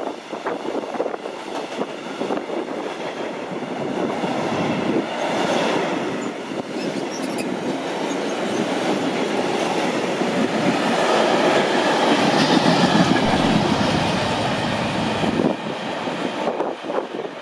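Freight wagons rolling past close by, their steel wheels rumbling and clattering over the rails. It grows loudest near the end, then drops away suddenly once the last wagon has passed.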